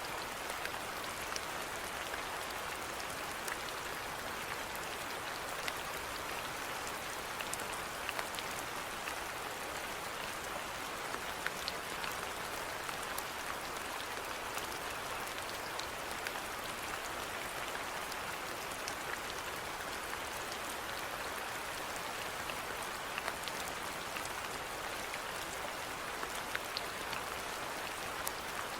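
Steady rainfall, an even hiss with scattered small drop ticks on a surface.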